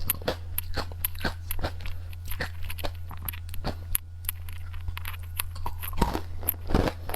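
Close-miked ASMR eating: crunchy Japanese candy being bitten and chewed in a quick, irregular run of sharp, crisp crunches, over a steady low hum.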